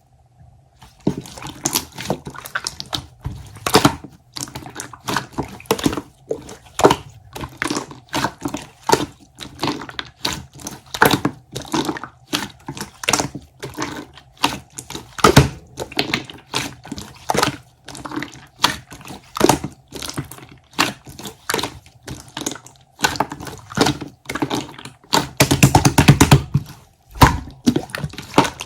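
Clear slime being squished and pressed by hand, making a steady run of sharp clicks and pops, a few each second, crowding together for a couple of seconds near the end.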